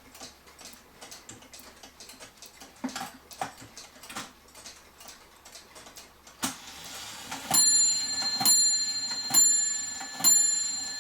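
Mechanical clock ticking softly, then a click about six and a half seconds in as the strike train releases. It then strikes a bell four times, about a second apart, each strike ringing on.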